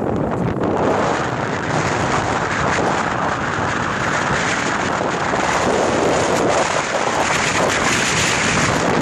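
Strong wind buffeting the microphone over the steady rush of water along a sailboat's hull as it sails fast in high winds, swelling and easing in gusts.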